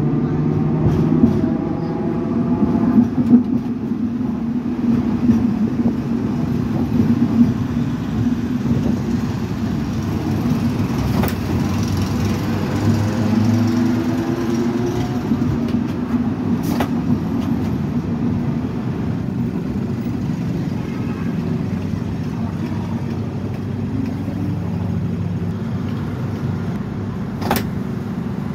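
Hong Kong double-decker electric tram running along its track: a steady rumble of motor and wheels on rail, with a few sharp clicks along the way.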